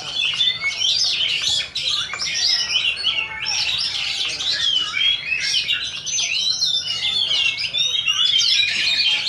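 Several Oriental magpie-robins singing at once, a dense, continuous chorus of quick, varied whistled and chirping phrases overlapping one another.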